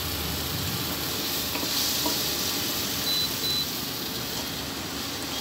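Wooden spatula stirring and scraping tomato-onion masala with chilli and kuzhambu powder frying in a non-stick kadai, with a steady sizzle. A little after three seconds in, an induction cooktop gives two short high beeps as its power is turned down, so the masala does not burn.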